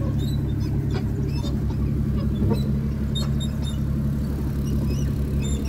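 Vehicle engine running steadily at a low, even pitch, with light rattles and clicks and a few short high chirps over it.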